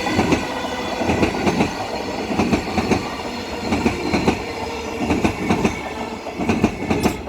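Six-car electric passenger train passing close by, its wheels clacking over the rail joints about twice a second, with steady high tones over it.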